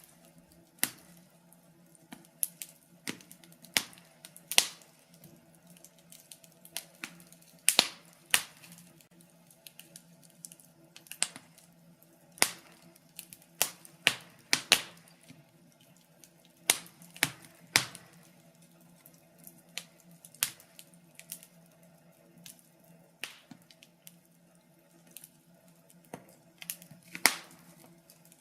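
Wood fire crackling in a fireplace: irregular sharp pops and snaps, roughly one or two a second and uneven in loudness, over a faint steady hum.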